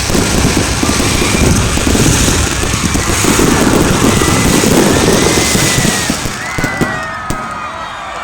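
Fireworks barrage going off in a dense, continuous mass of crackles and bangs, dying down about six seconds in. Crowd shouts begin to rise near the end.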